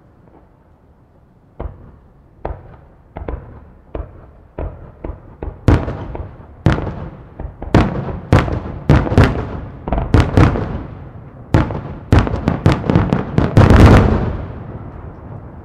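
Aerial firework shells bursting: a few separate bangs at first, then a quick run of overlapping booms that builds to the loudest burst near the end, with a rumble fading after it.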